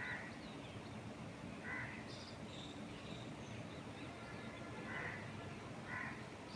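A crow cawing four times in short, harsh calls a second or more apart, with fainter high-pitched bird chirps and a steady wind hiss in the trees underneath.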